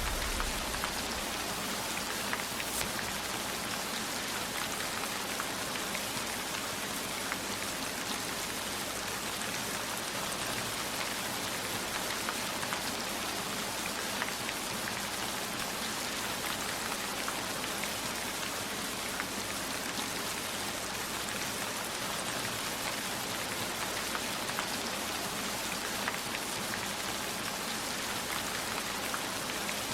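Steady heavy rain, a dense even hiss with scattered individual drops ticking, as on a roof and windows. A thunder rumble fades out in the first second.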